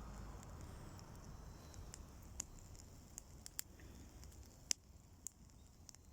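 Wood bonfire crackling: scattered sharp pops and snaps at irregular intervals over a low, faint hiss, the loudest pop a little before the end.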